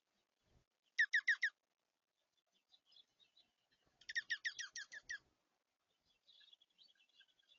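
Songbird calling at a feeder: a quick run of about five short down-slurred notes, then a longer run of about ten a few seconds later, with faint high twittering near the end.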